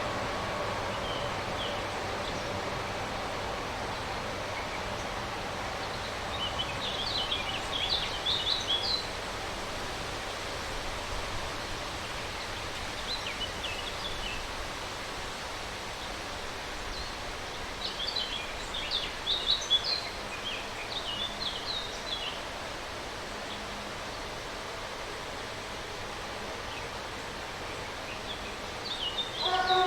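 Outdoor ambience with a steady hiss and small birds chirping in several short bouts; a faint pitched hum fades away over the first several seconds. Right at the end a locomotive whistle starts to sound.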